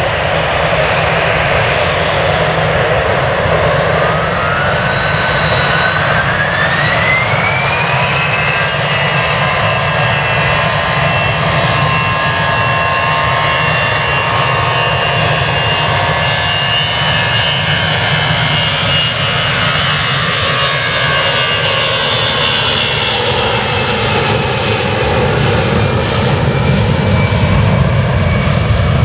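Jet airliner's engines spooling up to takeoff power. A whine rises from about four seconds in and levels off around eight seconds. The engines then run with steady whining tones over a loud rush, taking on a slow sweeping, phasing quality in the last several seconds.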